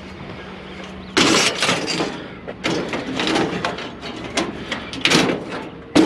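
Scrap items being handled and loaded: a sudden loud scrape about a second in, then a run of irregular knocks and scrapes.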